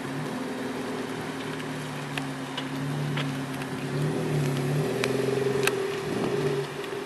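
Suzuki Swift 1.2's four-cylinder petrol engine running through a custom stainless-steel dual-outlet sport exhaust, a steady low exhaust note. It grows louder and a little higher about four seconds in, then eases back near the end.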